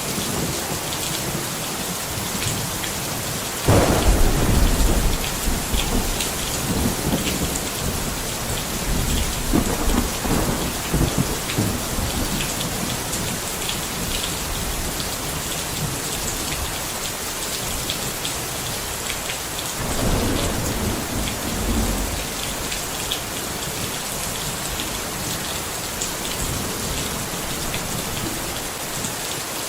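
Steady rain falling, with thunder: a sudden loud crack and rumble about four seconds in that trails off over several seconds, and a softer rumble about twenty seconds in.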